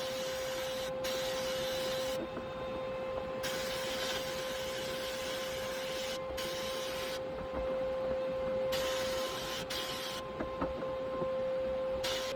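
A steady machine hum, with a hiss that starts and stops in bursts of one to a few seconds, several times.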